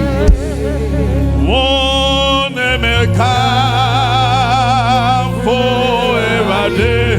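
Worship singing: a solo voice holding long notes with wide vibrato over a steady, sustained low accompaniment. A brief sharp thump sounds about a third of a second in.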